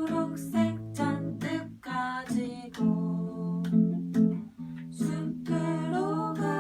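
Acoustic guitar strumming chords: an instrumental passage of a gentle song.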